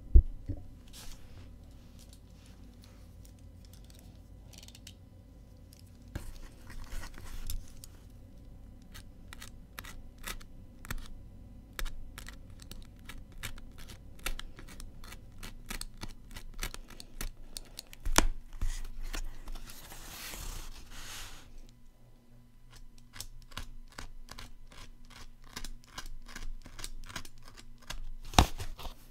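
Packing tape being cut on a cardboard shipping box and the cardboard handled: many quick, irregular clicks and scrapes, with a couple of longer rustling, tearing stretches.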